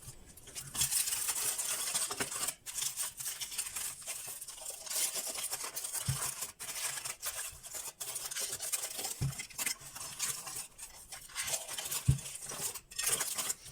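Scraping and rustling of earth being worked with a small tool to bury ritual ashes, with three soft thumps about three seconds apart.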